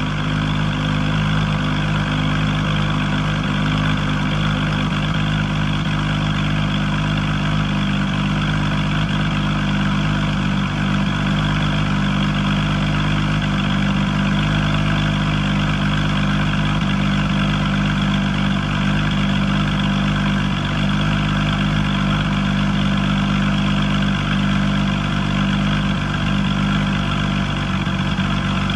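2018 Porsche 911 GT3 Touring (991.2) 4.0-litre naturally aspirated flat-six idling steadily through its twin centre exhausts, still warming up after a cold start.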